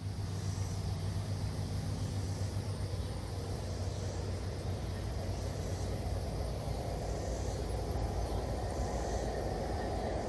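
A train running: a steady low drone with a rumbling noise that grows slightly louder toward the end.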